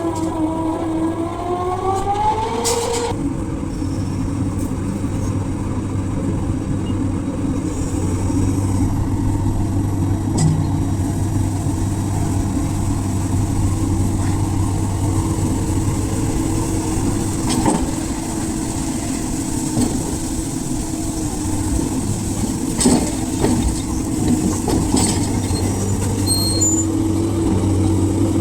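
Heavy diesel engine of a large excavator running steadily, with a few short knocks and clanks. A wavering, siren-like tone sounds over it at first and stops about three seconds in.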